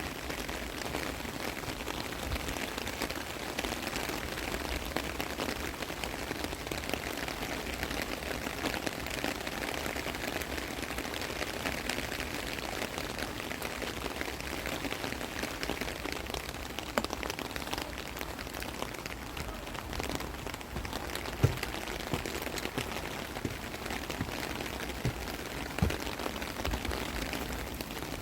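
Steady rain falling, with a few sharper, louder drop hits standing out; the loudest comes about three-quarters of the way through.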